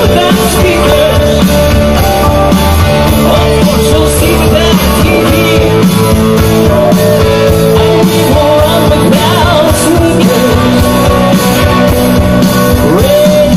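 Rock band playing live through a concert sound system, with lead vocals over guitars and a steady drumbeat.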